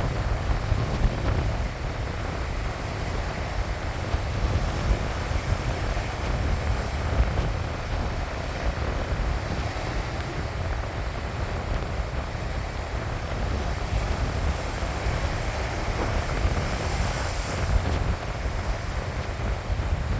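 Sea waves washing onto the shore in a steady rush, with wind buffeting the microphone in a low rumble.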